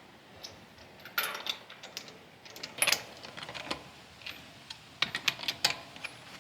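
Irregular light clicks and metallic clinks of small metal hardware being handled, in loose clusters with a few louder clacks.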